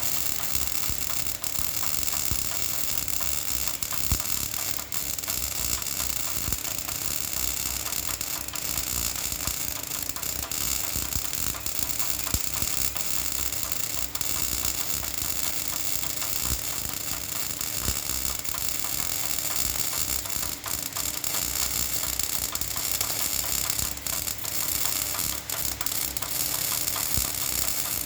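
Electric arc welding: a continuous frying crackle from the arc, with occasional sharper pops and a faint steady hum underneath.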